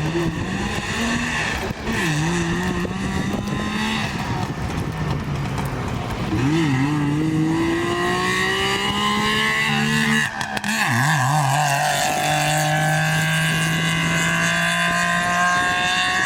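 Rally car running hard on a gravel special stage. The engine note climbs and then drops sharply about three times as it shifts gear, then holds a steady high note near the end.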